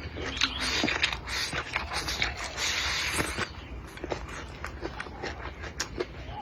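Close-up eating sounds: chewing with frequent short clicks and smacks, and a louder, noisier stretch of chewing or slurping about two seconds in.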